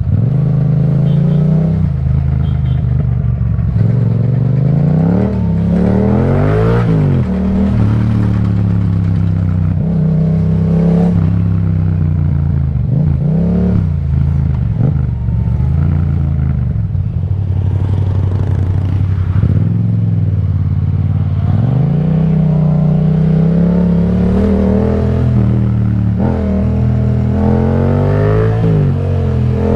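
Yamaha MT-07's parallel-twin engine with an Akrapovic exhaust, riding: the engine note climbs and drops again and again as the rider accelerates, changes gear and rolls off the throttle.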